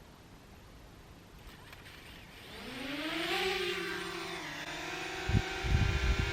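A small quadcopter drone's motors spin up into a rising whine about two and a half seconds in, then hold a steady pitch as it hovers, with a few low thumps near the end.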